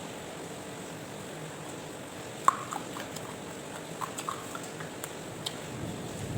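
A person eating crispy fried catfish with rice: quiet chewing with a few sharp clicks and crunches, the loudest about two and a half seconds in.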